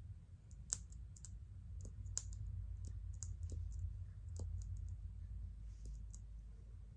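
Makeup products and their cases handled close to the microphone: about a dozen soft, irregular clicks and taps, over a steady low hum.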